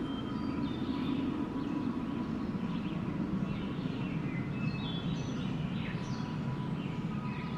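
Steady wind blowing, with birds chirping throughout.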